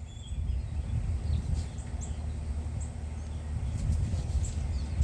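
Birds giving short, high chirps here and there over a steady low rumble.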